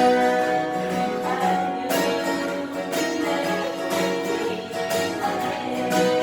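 Acoustic guitars playing a slow ballad instrumentally, strummed chords under a sustained melody line, with a fresh strum every second or two.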